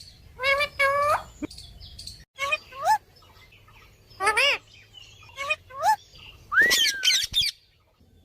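Parrots calling: a string of short squawks and rising whistled calls, then a louder, longer wavering whistle near the end.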